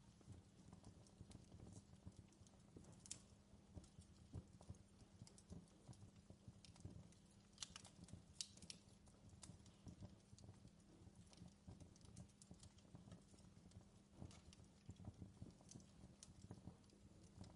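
Faint campfire crackling: dense, irregular small crackles over a low rumble, with a few sharper pops, one about three seconds in and a couple around eight seconds in.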